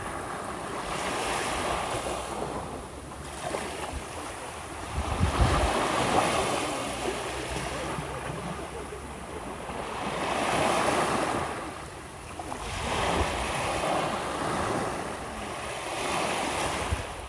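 Gentle sea waves washing onto a shore, the surf swelling and fading every few seconds.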